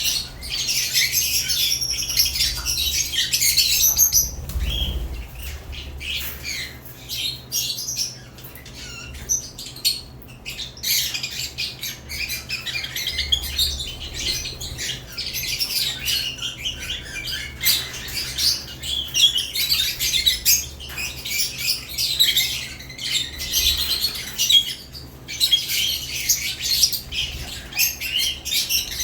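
A flock of caged lovebirds chattering with shrill chirps and squawks, one call over another. The chatter eases off for several seconds after the opening stretch, then builds again.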